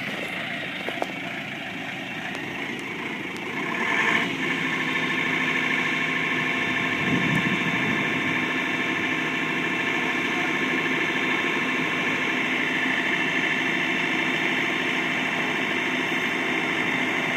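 Motor vehicle engine running at a steady idle, getting louder about four seconds in and then holding an even hum.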